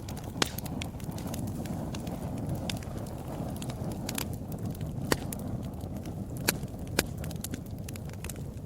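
Wood fire burning in a fireplace: a steady low rumble of flames with a few sharp crackling pops from the burning wood.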